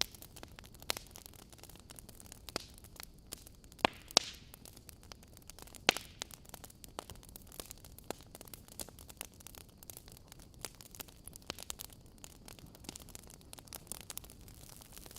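Wood fire burning in a fireplace, crackling with many small irregular snaps and a few sharper pops over a faint steady hiss.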